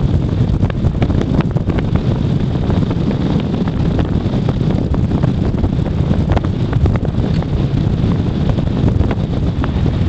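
Wind buffeting the microphone: a steady low rumble with frequent crackles.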